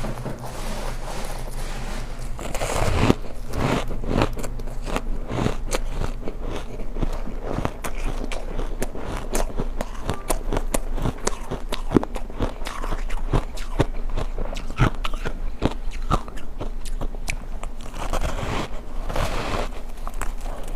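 Close-miked biting and chewing of refrozen ice chunks: a dense, continuous run of sharp crunches and cracks.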